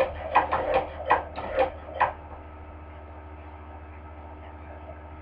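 Hand-crank cobbler sewing machine stitching, its mechanism clacking about three times a second, stopping about two seconds in, leaving a steady low hum.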